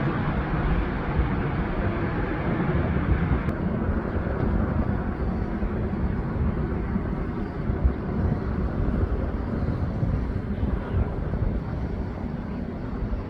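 Jet airliner engines rumbling on takeoff: a steady low roar that slowly fades. About three and a half seconds in there is a click, after which the sound loses its upper hiss.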